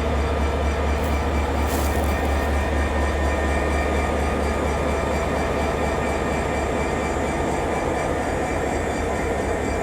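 Diesel freight locomotive idling: a steady low engine rumble, with a short hiss about two seconds in.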